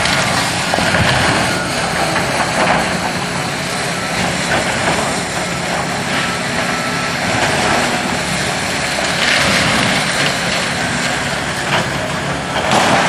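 Heavy diesel demolition machinery running steadily at the building, with louder surges of noise about nine seconds in and again near the end.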